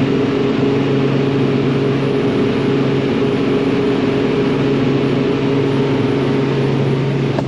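Self-propelled crop sprayer's engine running at a steady speed, heard as an even low drone with a constant hum.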